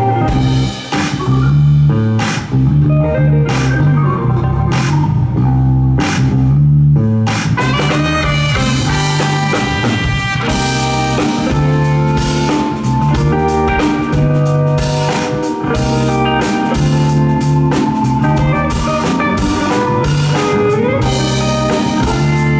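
Live band playing an instrumental groove on drum kit, guitar and a steady low bass line, with the cymbals and full band coming in more densely about seven seconds in.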